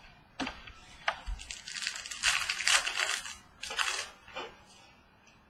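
Trading cards and their pack wrapper being handled: a run of crinkling, scraping rustles, loudest around the middle, then tailing off.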